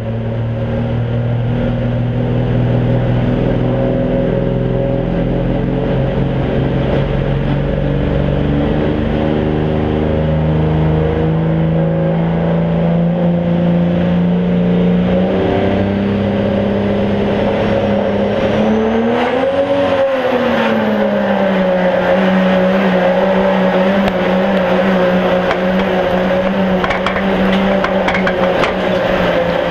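Pro Street diesel pickup's engine running hard under load during a truck pull, heard from on board the truck: a loud, steady engine drone whose pitch shifts in steps. About two-thirds through, the engine note briefly rises and falls, while a high whine climbs over a few seconds and then holds high to the end.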